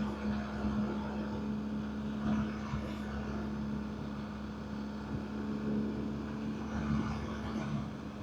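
BMW R1250GS Adventure's boxer-twin engine running at a steady pitch while riding, with wind noise on the microphone.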